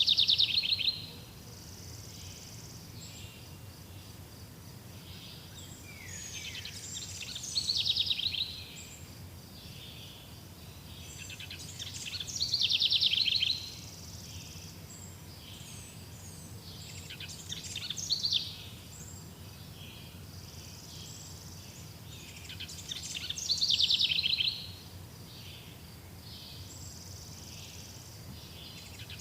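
A songbird singing a short, loud, fast trilled phrase that sweeps downward, repeated about every five to six seconds, with fainter high calls between and a steady low background hum.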